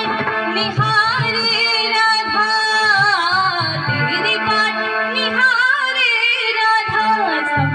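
A woman singing a Hindi devotional bhajan with ornamented, gliding melody lines, over musical accompaniment with a held low tone.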